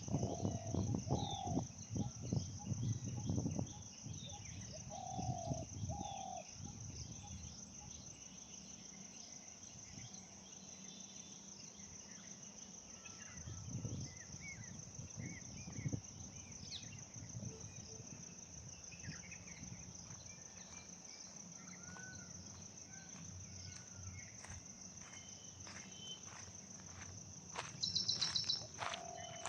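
Steady high-pitched drone of insects, with scattered short bird chirps over it and a few short, lower arched calls near the start and again near the end. Some low knocks and rustles come in the first few seconds and near the end.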